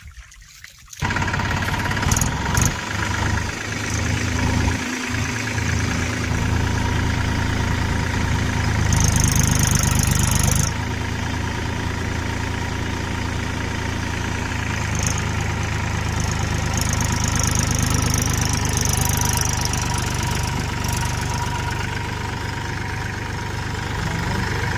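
Tractor diesel engine running steadily under load as a stuck tractor is pulled free. It cuts in suddenly about a second in and grows louder, with a hiss, for a second or so around the ten-second mark.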